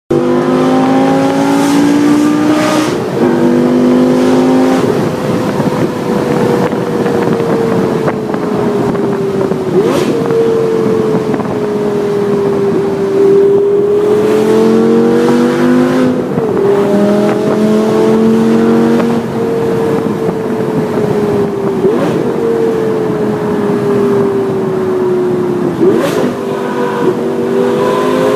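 Lamborghini Gallardo Spyder's V10 engine through a Larini sports exhaust, driving and accelerating: the engine note climbs and drops sharply at several gear changes, with a long stretch of steadier, slowly wavering running in the middle.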